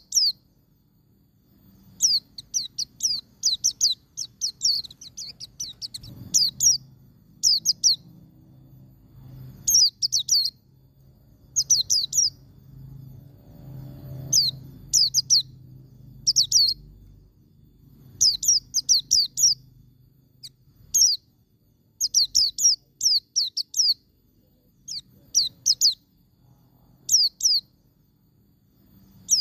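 White-eye (pleci) singing in the fast 'ngalas' style: short bursts of rapid, high, down-slurred twittering notes, repeated every second or two with brief pauses between.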